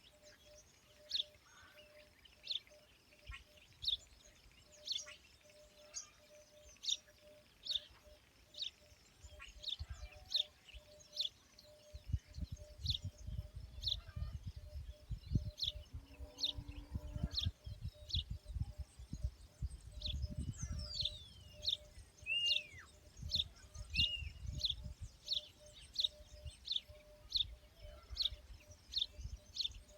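A bird calling over and over with a short high chirp, about one or two a second. Another bird gives a falling whistle and a couple of short notes past the middle. A low rumble comes in about twelve seconds in.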